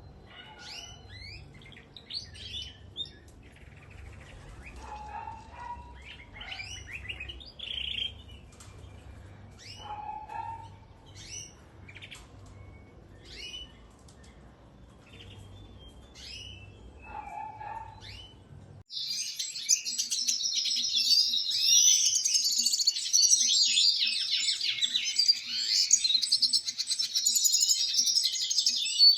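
Cage birds chirping in short, scattered calls over a low hum; about two-thirds of the way in, the sound cuts to a louder, dense, continuous birdsong.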